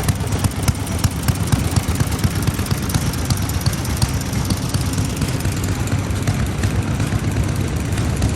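Vintage single-cylinder stationary farm engines (Japanese hatsudōki oil engines) running steadily, a continuous low chugging of firing strokes.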